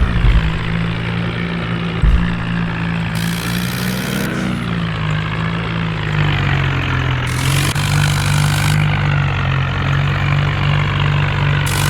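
Tractor's diesel engine running steadily, its note dipping slightly about four seconds in.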